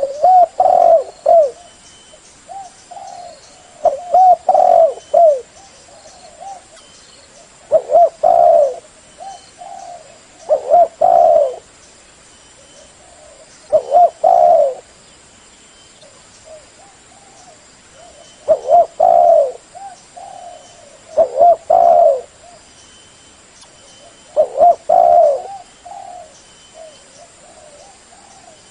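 Spotted dove cooing: short phrases of several low coos, repeated about every three seconds.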